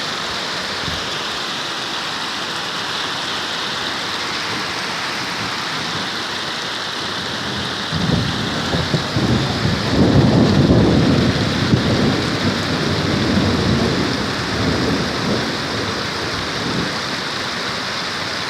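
Heavy rain falling steadily during a thunderstorm. A roll of thunder starts about eight seconds in, is loudest a couple of seconds later, and rumbles away over the next several seconds.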